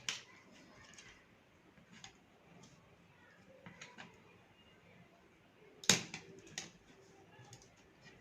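Scattered small clicks and taps of a flat-head screwdriver working on a plastic power strip's casing, with one sharper click about six seconds in.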